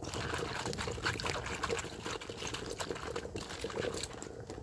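Water pouring and splashing as food is rinsed, with a steady trickle and small spatters.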